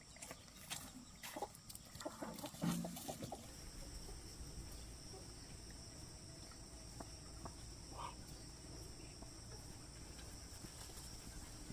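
Chickens clucking faintly, with a few light knocks in the first three seconds.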